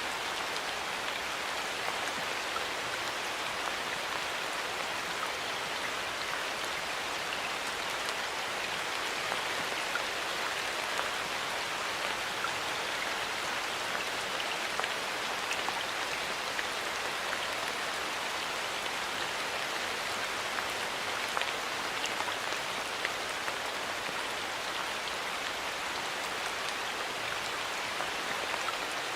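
Steady rain falling in a forest, with many individual drops pattering on leaves and the ground.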